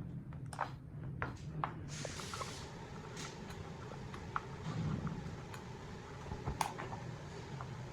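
Workbench handling sounds: a scattering of light clicks and taps, with a short hiss of spray about two seconds in, over a steady low hum.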